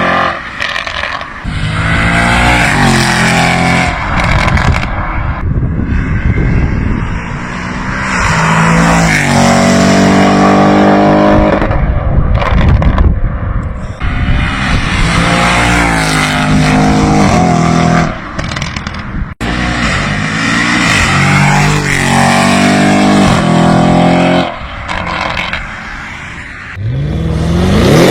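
Audi RS6 engine accelerating hard again and again, its note climbing in pitch through the revs and dropping back between pulls. There is an abrupt break about two-thirds of the way through.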